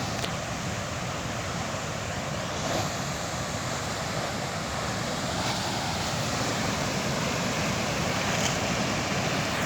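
Waterfall: falling water rushing steadily in an even noise.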